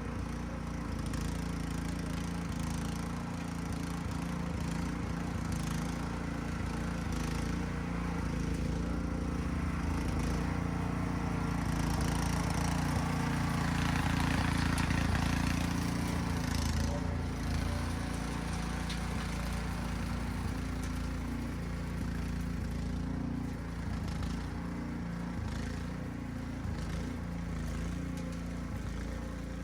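Small gasoline engine running steadily at a constant pitch, getting louder for a few seconds around the middle.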